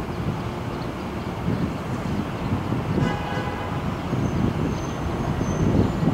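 Low rumble of a Metro-North commuter train on the elevated steel track, growing gradually louder. A short pitched tone sounds about three seconds in, and a faint high squeal follows near the end.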